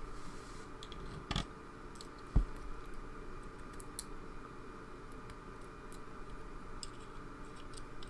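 Small scattered clicks and taps of metal tools and lock parts as a pin-tumbler lock is taken apart, its driver pins and springs being picked out, with two duller knocks about a second and a half and two and a half seconds in.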